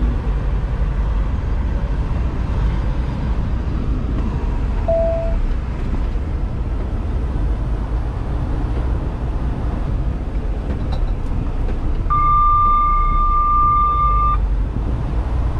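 Semi truck's engine and cab noise running steadily inside the cab. A short tone sounds about five seconds in, and a steady high electronic beep holds for about two seconds near the end.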